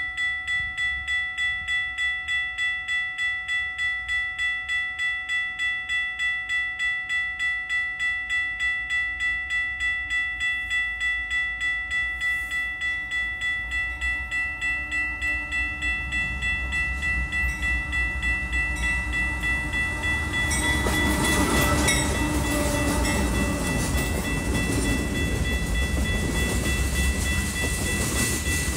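Grade-crossing warning bell ringing in a steady pulse, about two and a half strokes a second, as a diesel freight train approaches. About 20 seconds in, the train's rumble and wheel noise grow loud as a string of tank cars rolls past, and the bell keeps ringing underneath.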